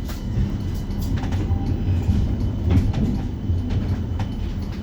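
Interior noise of a light-rail tram: a steady low rumble with a few sharp clicks and knocks.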